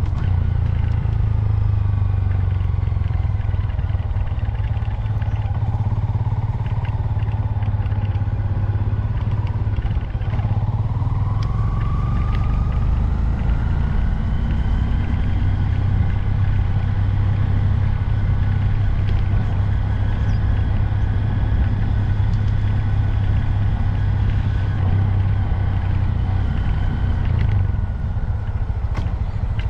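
2022 Honda Grom's 125 cc single-cylinder engine running steadily under way, its note rising about ten seconds in as the bike speeds up and then holding.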